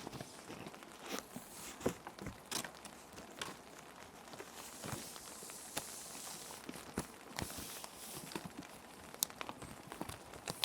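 Clear plastic sheet protectors crinkling and crackling as paper sheets are slid into them, with irregular taps and crackles and a longer sliding rustle about halfway through. Soft rain ambience runs underneath.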